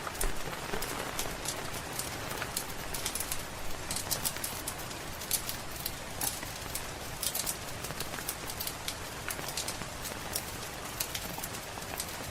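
Steady rain with a wood fire crackling over it in frequent sharp, irregular pops.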